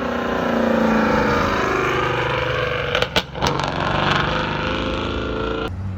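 A motor vehicle engine running, its pitch sliding up and down. A few sharp clicks come about three seconds in, and near the end the sound changes abruptly to a lower, steady engine hum.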